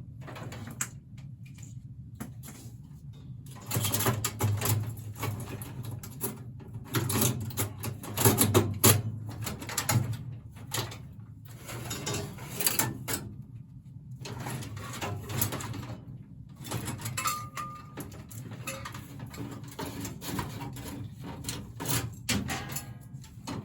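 Irregular knocks, clatter and scraping of hands and tools at work on a furnace, with short pauses between, over a low steady hum; a brief squeak about seventeen seconds in.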